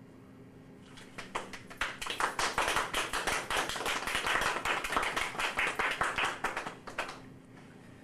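A small audience clapping: dense, irregular hand claps that start about a second in, swell, and die away about seven seconds in.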